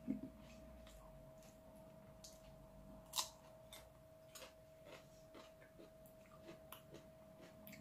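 Quiet chewing of soft ripe mango: scattered small wet mouth clicks and smacks, the sharpest about three seconds in, over a faint steady hum.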